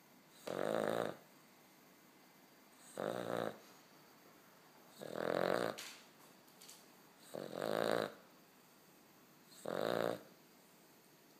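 A puppy snoring: five even snores about two seconds apart, each a pitched rasp lasting half a second to a second.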